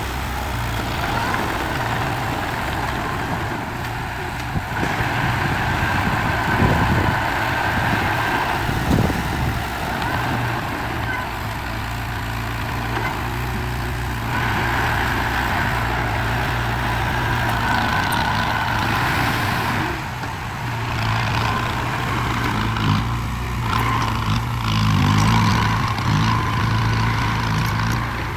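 Engine of a heavy construction machine running steadily under load, with a few brief low surges.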